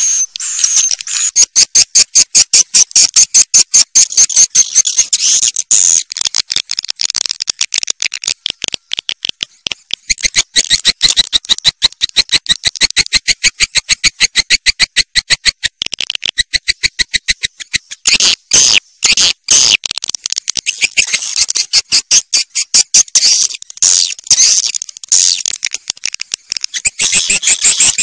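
Swiftlets twittering: a fast, steady run of high-pitched chirping pulses, about four to five a second, in a lure recording of the kind played to draw swiftlets into nest houses.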